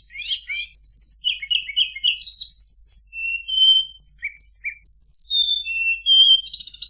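Tledekan bird singing a rapid, varied song of high chirps, slurred whistles and short buzzy trills, one phrase running straight into the next.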